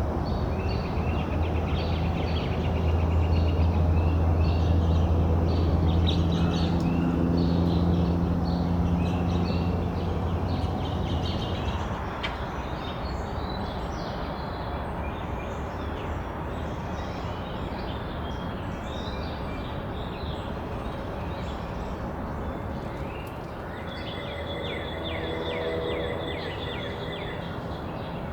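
Wild songbirds chirping and singing repeatedly, with a trilled song near the end. For the first ten seconds or so a low, steady engine rumble from a passing vehicle or train runs underneath and then fades away.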